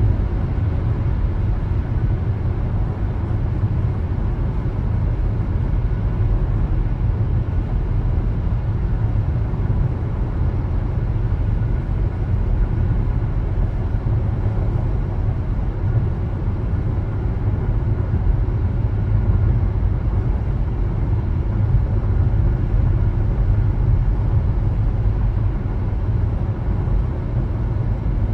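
Car driving on the road: steady low rumble of tyre and engine noise.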